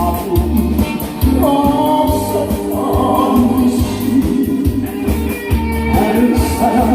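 A song performed live: a singer's voice holding long, wavering notes over instrumental accompaniment with a steady beat.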